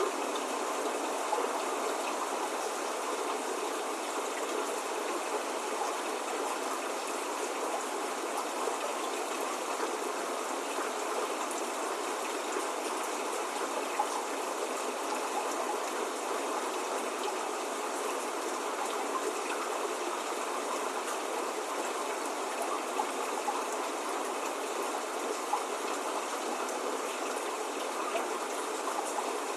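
Steady spring rain, an even hiss with scattered faint drop ticks, with no thunder or birdsong.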